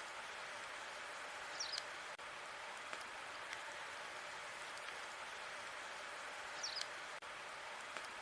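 Wood fire burning in a fireplace: a steady hiss with scattered sharp crackles and pops. Twice, about five seconds apart, a short high squeak or chirp is heard.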